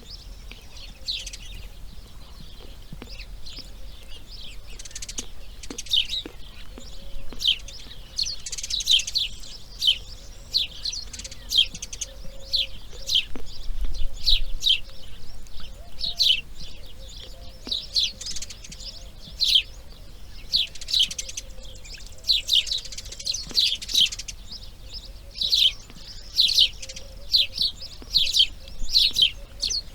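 Birds chirping: many short, high chirps that each fall in pitch, coming in quick runs throughout.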